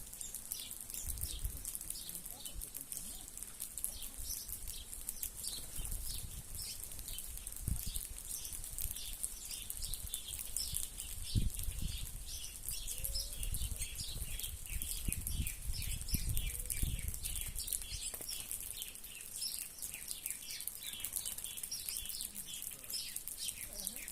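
A flock of small birds chirping continuously, many short calls overlapping, while they feed on scattered cracked corn, with bursts of wing flutter and a few low thumps from about a third of the way in.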